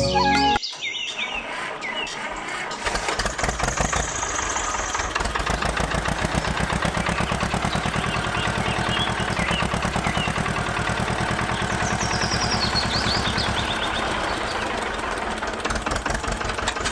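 A small engine running with a fast, even chugging. A few high chirps sound over it.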